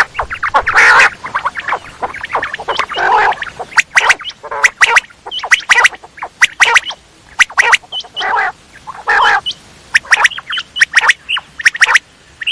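Quail calling: a rapid, irregular run of short, sharp high notes mixed with harsh raspy bursts, repeating throughout.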